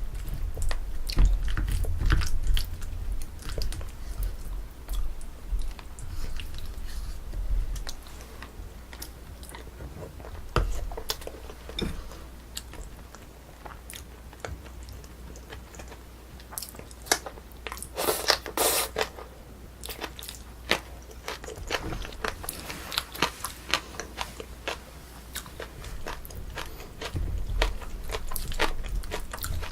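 Close-miked chewing and biting of Korean braised spicy chicken (dak-bokkeum-tang), with many short clicks throughout and a louder noisy stretch of about a second roughly eighteen seconds in.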